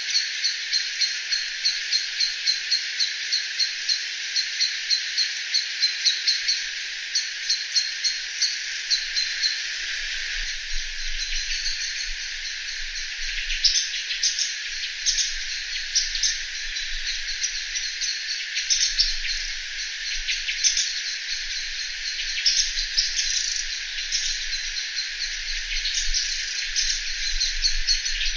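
Insect chorus: a steady shrill hiss with an evenly pulsing chirp about three times a second. After about nine seconds the chirps turn irregular and scattered.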